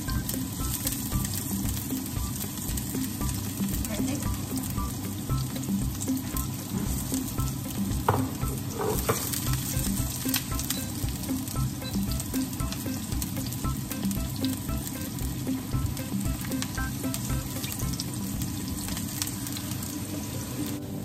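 Garlic and onion frying in hot oil in a nonstick pan: a steady sizzle with fine crackles, with the pieces being stirred with a silicone spatula.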